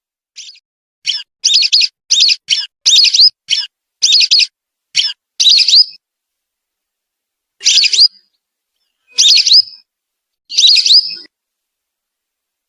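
Recorded whistling duck (belibis) calls played as a bird lure: a quick run of short, loud whistled notes for the first six seconds, then three longer whistles about a second and a half apart, with dead silence between calls.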